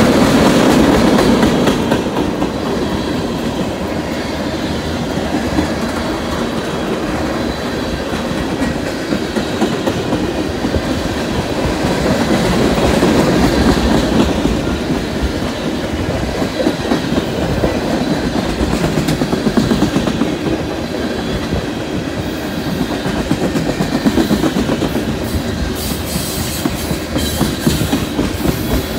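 Freight train of tank cars rolling past close by: a steady rumble of wheels on rail, with the wheels clicking over rail joints. The clicks come sharper and more distinct near the end.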